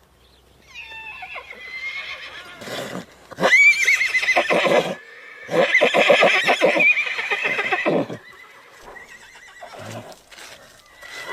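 Horse whinnying: a fainter falling call about a second in, then two loud, quavering neighs of about one and a half and two and a half seconds in the middle, with a few short bursts of breath-like noise between.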